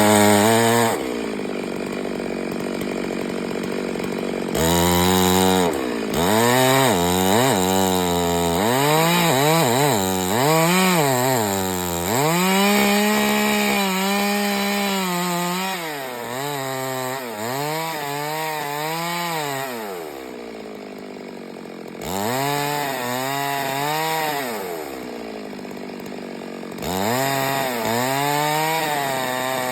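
Chainsaw engine revved hard again and again, its pitch climbing and falling with each burst of throttle as it cuts, dropping back to a lower idle a couple of times.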